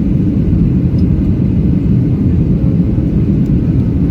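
Passenger airliner producing a steady low rumble, even and unbroken.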